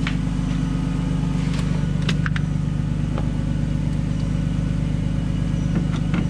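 Nissan Skyline R32 GTS-t's RB20DET turbo straight-six idling steadily, a little high on a cold start. There are a few light clicks near the start, about two seconds in and near the end.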